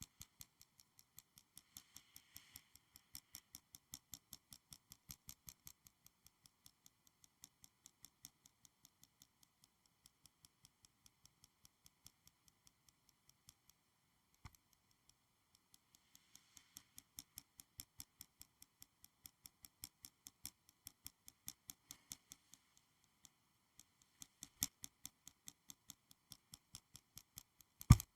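Quick, light clicking from school supplies being tapped and handled for ASMR, about five faint clicks a second in a steady rhythm, with one sharper click about halfway and a louder knock near the end.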